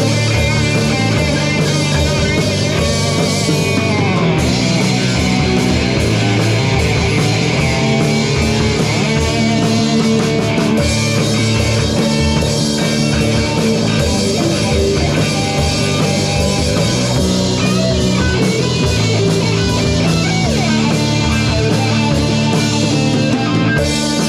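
Live punk rock band playing an instrumental break: an electric guitar solo with bent, gliding notes over drum kit and bass.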